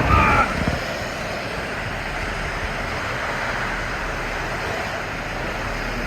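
Rider sliding down a water slide, with water and air rushing steadily around the rider as they travel through the slide. A short high-pitched sound comes right at the start.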